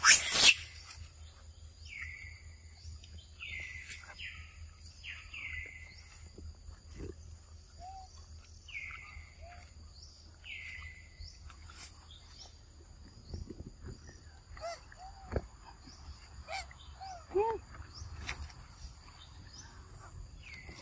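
Outdoor forest ambience: a bird repeats a short falling call about once a second for the first half, over a steady high insect drone. A few shorter, lower calls follow in the second half, and a loud brief noise comes right at the start.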